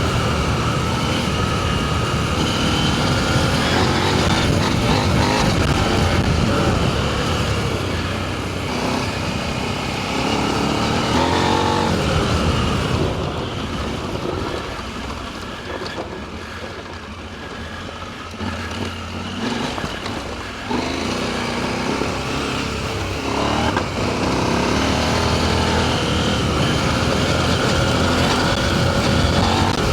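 Adventure motorcycle engine running under way on a dirt trail, its pitch rising and falling with the throttle. It eases off and goes quieter for several seconds midway, then picks up again.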